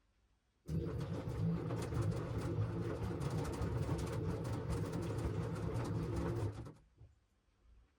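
LG washing machine drum turning during the wash cycle, a low churning of clothes and water that starts abruptly under a second in, runs steadily for about six seconds, then stops as the drum pauses.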